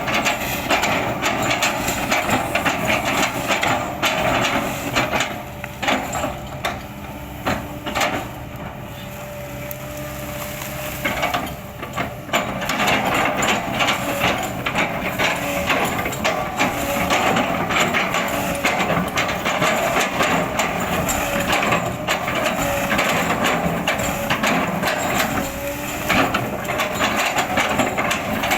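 Kobelco hydraulic excavator running under load while its bucket chops into oil palm trunks: a dense run of crunching, splintering knocks over the steady engine. The chopping eases for a few seconds about a third of the way in, then picks up again.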